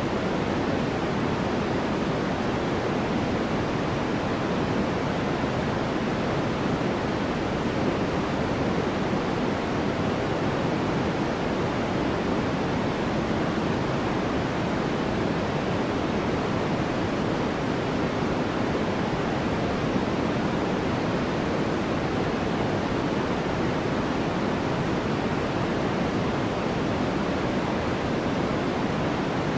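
Steady white noise for sleep: a continuous, even hiss with no changes or events, weighted toward the low and middle range rather than the highs, so it sounds more like pink noise.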